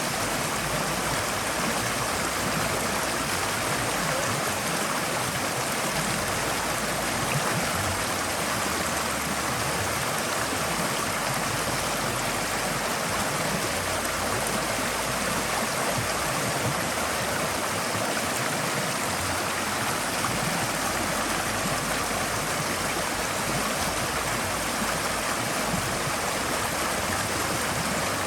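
Forest stream flowing steadily over rocks, a continuous even rush of water with no breaks.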